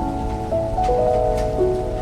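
Steady rain falling, with calm meditation music playing over it: a slow melody of long held notes.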